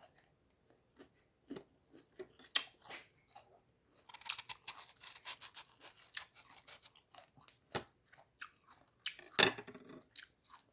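Close-up chewing and crunching of firm, crunchy mango flesh, with a dense run of crunching about four to seven seconds in and sharp, louder bites, the loudest near the end.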